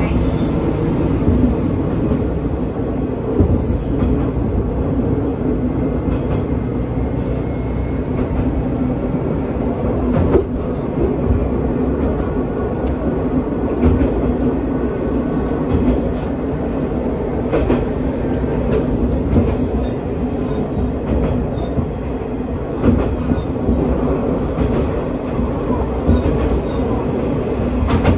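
Diesel railcar of the Watarase Keikoku Railway running along the line: a steady rumble of engine and wheels on rail, with irregular clicks as the wheels cross rail joints.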